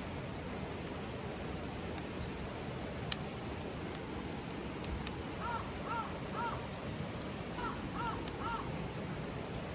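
A crow cawing in two runs of three short calls, over a steady background hiss with a few faint clicks.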